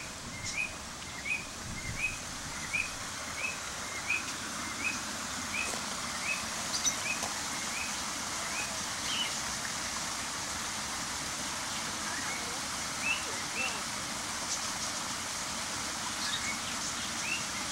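A bird repeating a short, rising chirp about once every 0.7 seconds, over a steady hiss. After about seven seconds the chirps thin out to a few scattered ones, then pick up again near the end.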